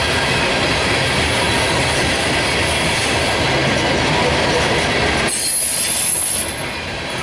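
Loaded coal train's cars rolling past, a steady, loud rumble and clatter of wheels on rail. The higher hiss cuts off suddenly about five seconds in, and the sound eases slightly near the end.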